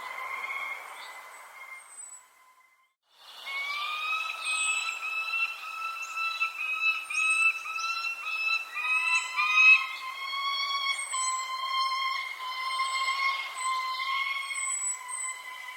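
Birds chirping and calling, with many short high chirps over a steady chorus of sustained pitched calls. The sound drops out to near silence for about a second, two to three seconds in, then comes back.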